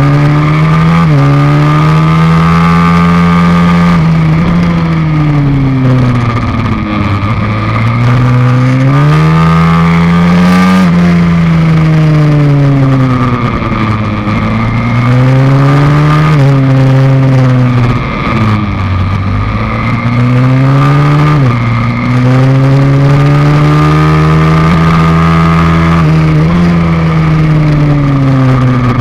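Pit bike's YX160 single-cylinder four-stroke engine, heard from on the bike while lapping a track: loud, with the revs climbing and falling again and again through gear changes, easing off into corners and pulling out of them.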